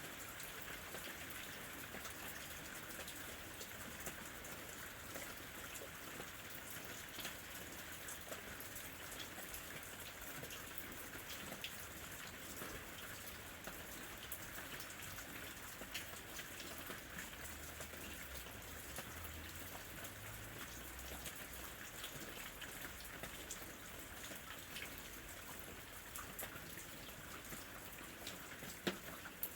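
Steady rain falling on leaves and fruit, a constant patter with scattered louder drips.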